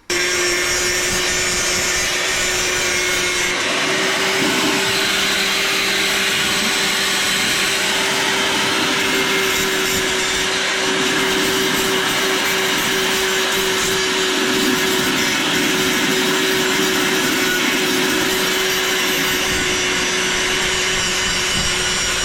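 Corded angle grinder running steadily under load with a fresh wheel, cleaning rust off the end of a car's exhaust pipe, with a steady whine over the grinding noise. It starts abruptly and runs without a break.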